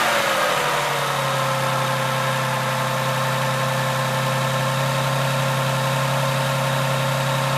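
Toyota MCU15's 1MZ-FE 3.0-litre V6 engine, with 127,000 km on it, settling down from a throttle blip within the first second, then idling steadily.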